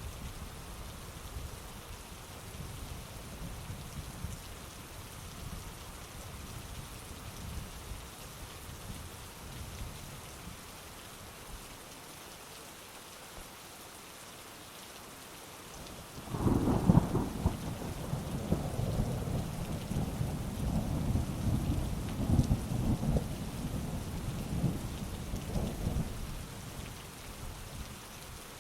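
Heavy rain falling steadily, with a low rumble of thunder at first; about halfway through a sudden loud clap of thunder breaks and rolls on for about ten seconds before dying away, leaving the rain.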